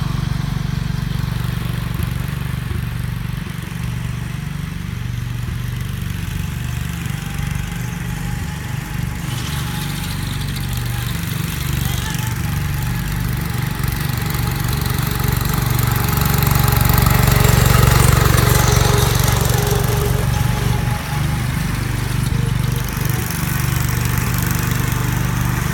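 Small garden tractor engine running steadily, its low rumble swelling to its loudest about two-thirds of the way through, as if the tractor is coming closer, then easing off a little.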